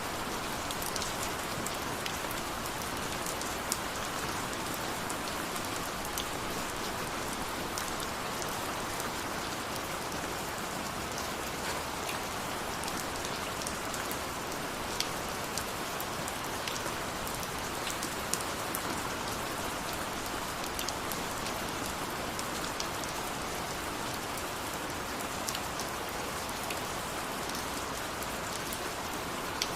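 Steady rain falling, a dense hiss with many individual drops ticking on a surface.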